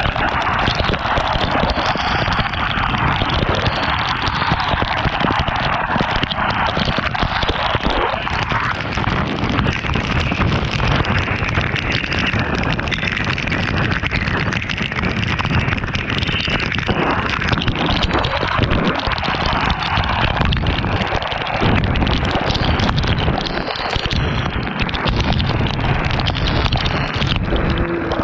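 Wind rushing and buffeting against the microphone while riding in the rain: a loud, dense, unbroken rush with constant gusty thumps.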